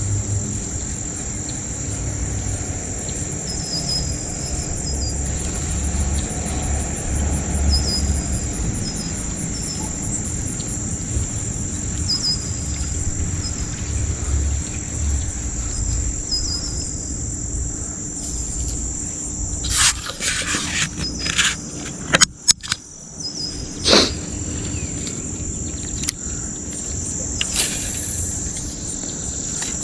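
Steady high-pitched drone of an insect chorus, with short bird chirps now and then. A few sharp clicks and knocks come about two-thirds of the way through.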